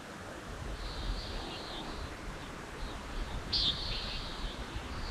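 Birds giving short, high trilled calls a few times, over a steady low outdoor rumble.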